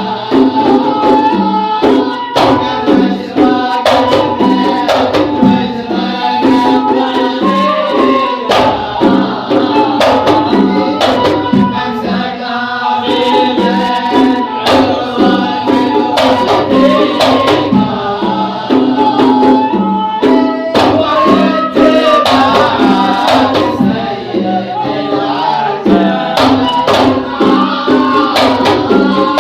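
Sama' devotional singing: a sung melody over repeated hand-drum beats.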